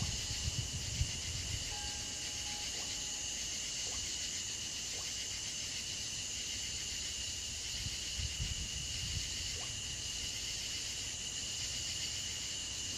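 Steady outdoor insect chorus, a continuous high-pitched trilling buzz that does not change, with a few faint low bumps about two-thirds of the way in.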